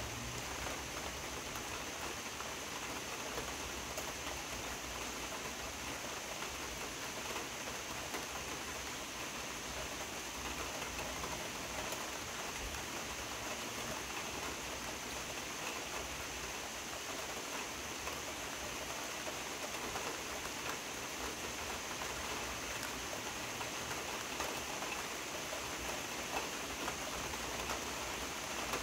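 Steady rain falling, with many small individual drops ticking through a constant hiss.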